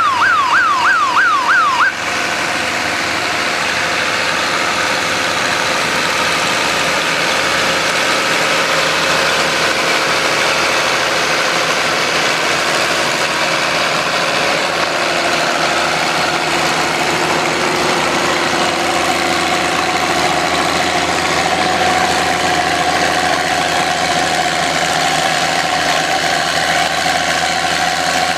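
A warbling siren-like tone swings quickly up and down for about the first two seconds and cuts off. Then a vintage farm tractor's engine runs hard and steadily under load, pulling the weight sled.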